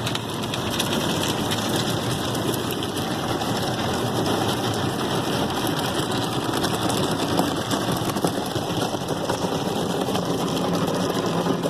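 Ryko Softgloss Maxx car wash brushes spinning and scrubbing a pickup truck while water sprays over it: a steady, dense wash of noise.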